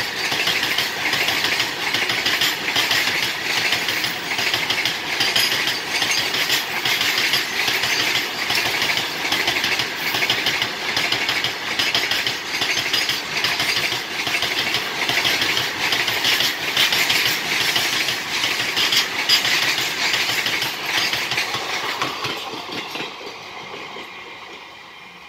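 Loaded BOXN open wagons of a coal freight train rolling past: a steady, loud clatter of steel wheels on the rails, with rapid clicks as the wheels cross rail joints. The noise fades away over the last few seconds as the end of the train passes.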